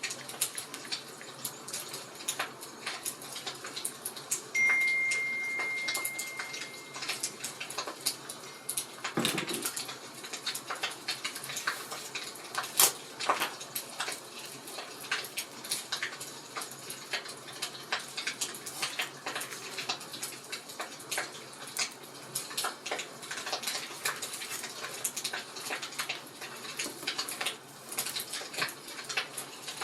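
Wood fire crackling, with irregular sharp snaps and pops over a soft steady hiss. A thin, steady high whistle sounds for about two seconds near the start, and there is a soft thump about nine seconds in.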